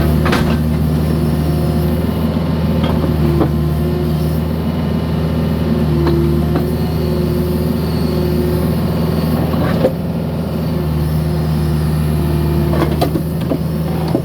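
Mini excavator's diesel engine running steadily under work, with a hydraulic whine that rises and falls as the controls are worked. A few sharp knocks of concrete and bucket come through, the clearest about ten seconds in.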